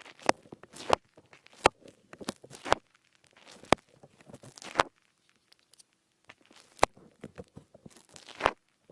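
A melamine sponge scraped and rubbed against an ASMR microphone's dummy ear, alternating with the ear being kneaded. It comes as irregular sharp scratches and brushy strokes, with a short pause about halfway through.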